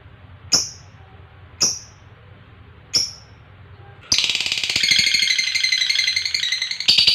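Lovebird calling: three sharp single chirps about a second apart, then from about four seconds in a long, rapid rattling chatter (the long 'ngekek' trill), louder near the end.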